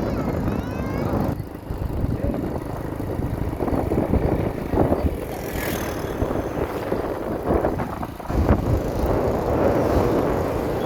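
A motorcycle riding along: engine and road noise, with wind buffeting the microphone in uneven gusts.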